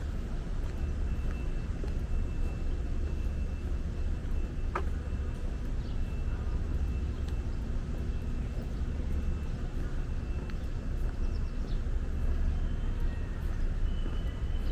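Steady low rumble of city traffic, with a faint thin high tone held through much of it and one brief sharp chirp about five seconds in.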